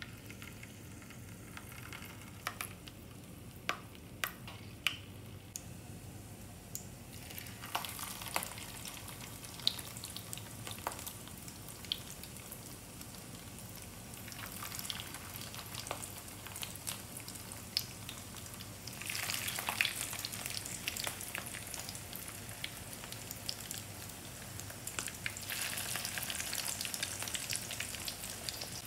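Raw meat kabab patties shallow-frying in hot oil in a pan: a steady sizzle with scattered sharp pops and spits. It starts as separate crackles and grows into louder surges of sizzling as more raw patties go into the oil.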